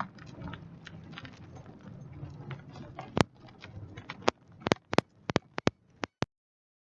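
Muffled rustling, handling-type noise, then a quick run of about eight sharp clicks or taps over the last three seconds, stopping abruptly.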